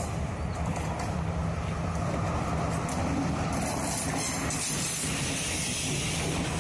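Sri Lankan S14 diesel multiple unit with S8 coaches passing close: a steady low engine hum under the rumble of wheels on the rails, with a brighter hiss joining about halfway through as the coaches go by.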